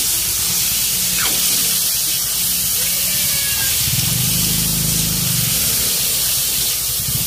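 Cubed pork and onions frying in oil in a wok, sizzling steadily while they are stirred.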